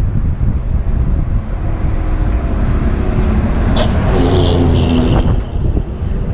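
Wind rumbling on a helmet-mounted camera while cycling along a road, with a motor vehicle passing close about halfway through, its engine and tyre noise rising and then dropping away.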